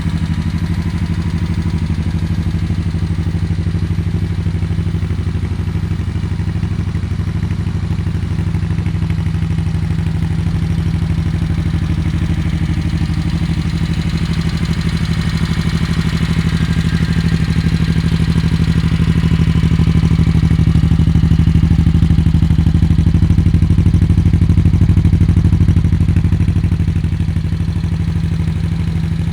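Honda VT1100 Shadow Sabre's 45-degree V-twin engine idling steadily, its revs rising a little about two-thirds through and settling back near the end.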